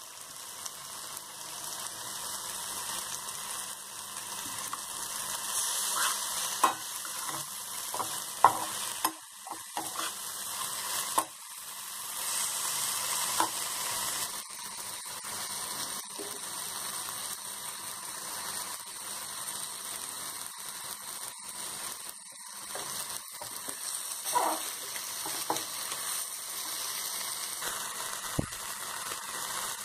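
Chopped onions and tomatoes sizzling in oil in a pan, a steady hiss. A metal perforated skimmer ladle stirs them, scraping and clicking against the pan several times.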